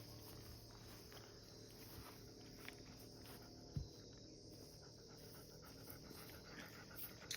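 Near silence: faint outdoor background with a few soft ticks and one short knock near the middle.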